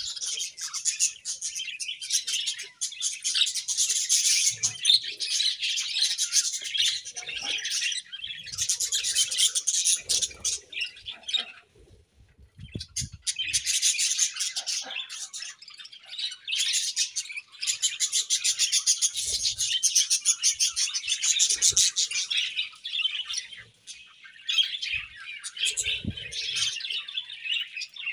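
A colony of budgerigars chirping and warbling in continuous overlapping chatter, with a short lull about twelve seconds in.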